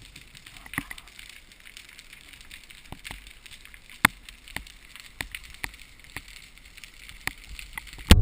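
A series of sharp, irregularly spaced clicks and ticks over a faint steady hiss, the loudest about four seconds in.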